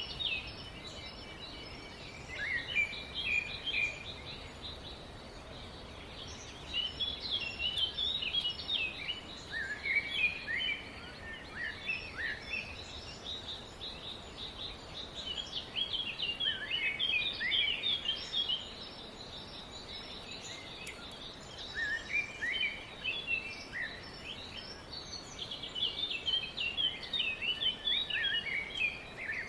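Small songbirds chirping in bouts of rapid, high twittering that come and go every few seconds, over a steady background hiss.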